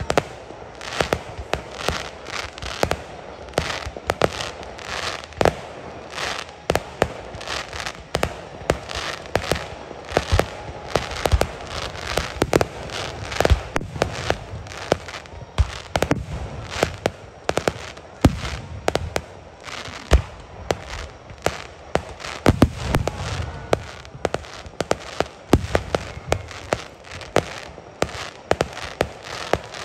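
Aerial firework shells bursting in a rapid, dense barrage: many sharp bangs of varying loudness, several a second, overlapping one another.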